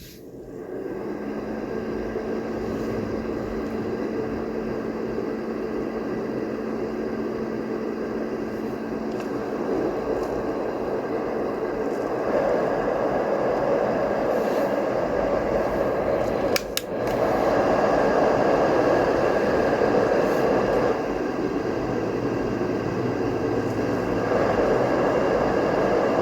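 Sleep Easy fan-based white noise sound machine running with a steady rushing noise and a faint hum. It grows louder in steps about 12 and 17 seconds in, with a click just before the second step.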